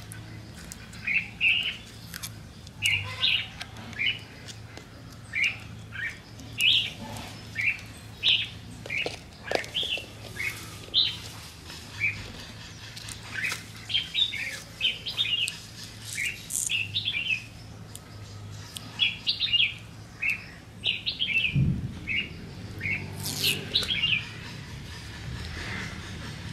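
Small birds chirping: many short, high chirps every second or so, over a faint steady low hum.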